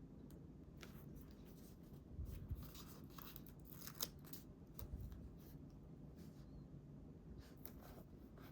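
Quiet paper-craft sounds: soft rustling and small clicks of paper being handled and cut, with a few louder taps about two and a half, four and five seconds in.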